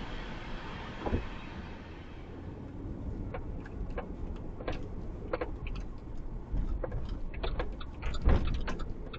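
Rumble of a passing empty coal train fading away over the first couple of seconds, then scattered clicks and knocks with a heavier thump near the end.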